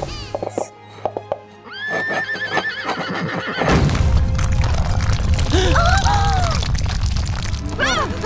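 Cartoon unicorn whinnying in trilling, horse-like calls over a dramatic music score that swells loudly about four seconds in. There are a few short knocks in the first couple of seconds.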